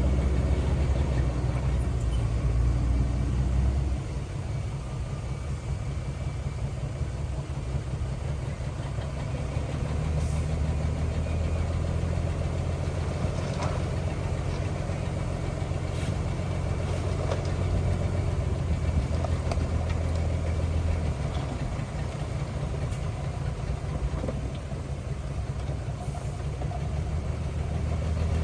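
Diesel engine of heavy earthmoving equipment running steadily at low speed, a deep hum that drops in level about four seconds in, with a few faint knocks.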